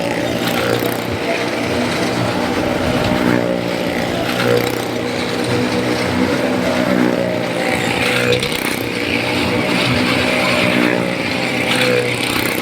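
Motorcycle engines running hard as the riders circle the wall of a well of death, their pitch rising and falling over and over.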